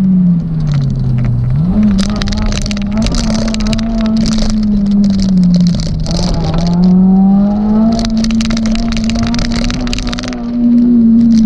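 Suzuki Swift Sport ZC32S's 1.6-litre four-cylinder engine pulling hard, heard from inside the car. Its note falls about a second in and snaps back up, then dips again midway and climbs, with repeated sharp clattering over it.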